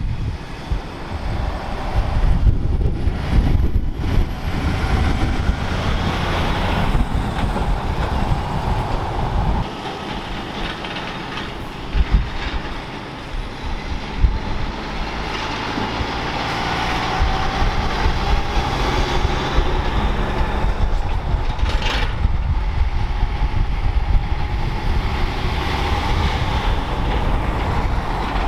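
Heavy vehicles going past: a steady, loud rumble of big engines and running gear, with a few sharp knocks along the way.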